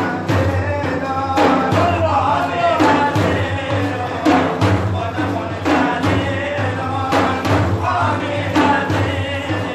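Religious praise song (madih) sung by a male voice, with steady low accompaniment and repeated drum strokes.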